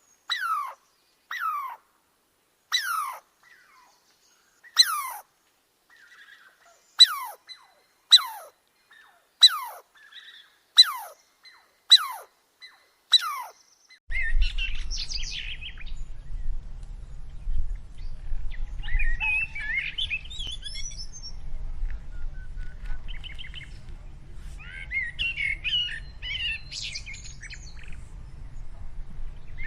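A bird's call repeated about once a second, each a sharp, quick falling whistle, with silence between. About halfway through, this gives way to a steady low rumble with busy, irregular bird chirping over it.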